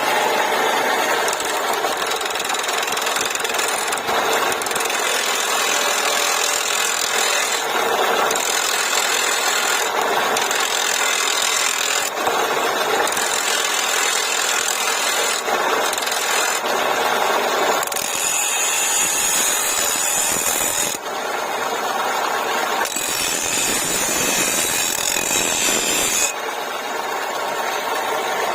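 A cutting tool scraping wood on a lathe: a continuous rough, rasping hiss that changes every second or two as the tool moves along the spinning blank.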